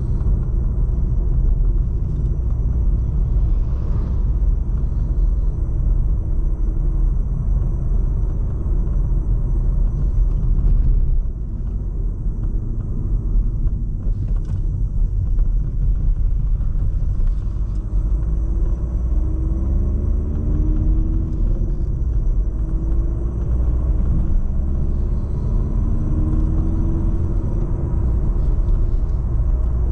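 Volkswagen Golf VII 1.6 TDI four-cylinder turbodiesel running under way, with steady low road and engine rumble. The engine note rises in pitch as the car accelerates, about two-thirds of the way through and again near the end.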